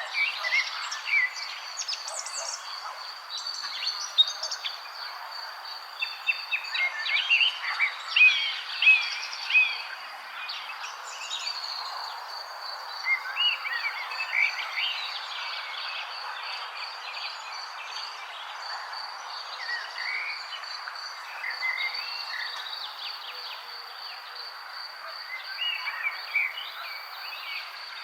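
Birds chirping and calling in a lively chorus of short, quick notes, busiest about a third of the way through. Underneath runs a steady, high, pulsing insect trill, with a soft haze of background noise.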